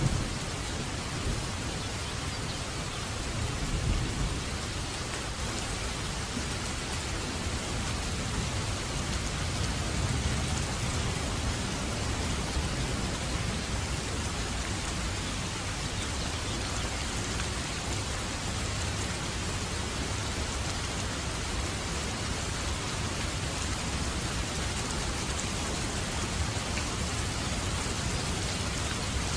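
Steady heavy rainfall, with low rolling rumbles of thunder near the start and again about 4 and 10 seconds in.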